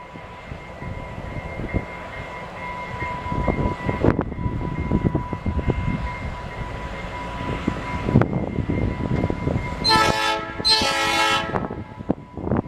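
A train rolling by with rumble and repeated clacks of wheels over the rails. About ten seconds in, its air horn sounds two blasts, the second slightly longer.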